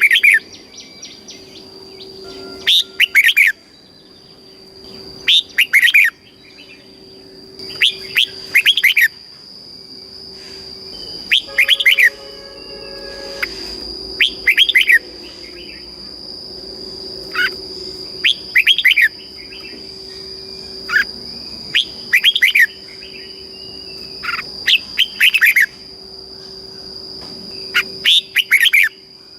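Red-whiskered bulbul singing: short, loud whistled phrases, each repeated every two to three seconds, over a steady high tone in the background.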